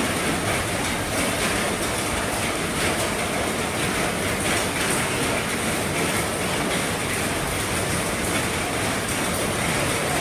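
Heavy rain falling on an RV's roof: a steady, dense patter with no letup.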